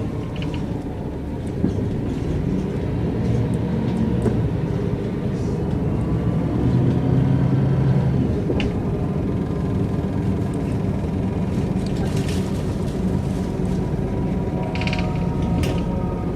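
Mercedes-Benz O405 N² city bus with a Voith automatic gearbox driving, heard from inside: its diesel engine runs steadily under way, with a few short rattles from the bus body. The engine pitch drops slightly near the start and climbs again near the end.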